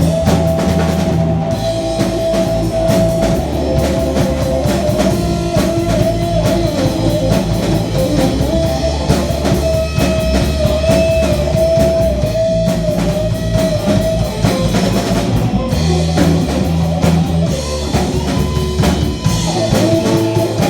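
Rock band playing an instrumental passage: a guitar lead with long held, bending notes over bass and drum kit.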